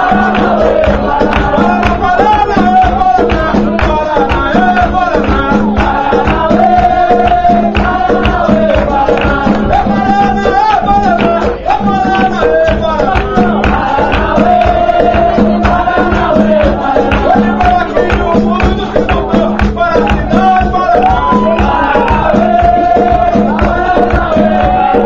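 Capoeira roda music: singing over a steady, driving percussion rhythm.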